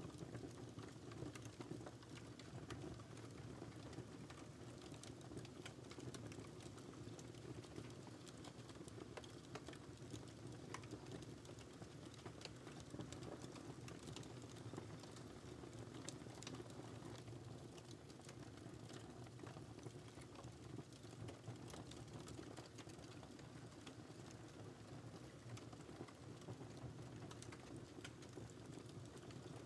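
Wood fire crackling in a fireplace: many small irregular pops and snaps over a low, steady rumble of the flames.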